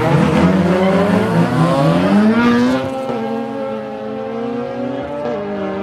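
Car engine accelerating, its pitch rising for about the first two and a half seconds, then running at a steady pitch.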